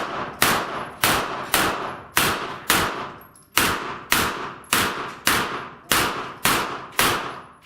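A string of about a dozen gunshots fired at a steady pace of roughly two a second, with one slightly longer pause near the middle. Each shot has a short echoing tail.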